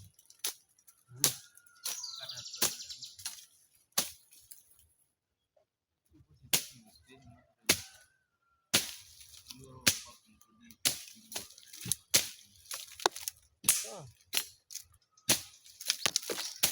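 Hand tools chopping and digging: repeated sharp strikes at an irregular pace, some close together, with a short pause in the middle.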